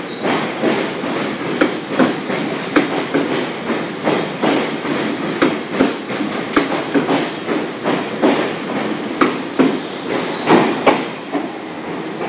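SEPTA Regional Rail electric train running past along the platform, its wheels clacking over the rail joints in a quick, uneven run of knocks over a steady rumble.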